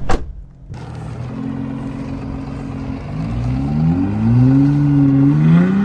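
A sharp click at the very start, then a truck engine revving under load during a rope recovery pull of a vehicle stuck in mud. The engine note rises about three seconds in, holds high, climbs again near the end, then eases off.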